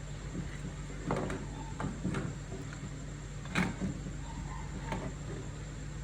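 Several light knocks and clicks of small hard objects being handled and set down, the sharpest a little past the middle, over a steady low electrical hum.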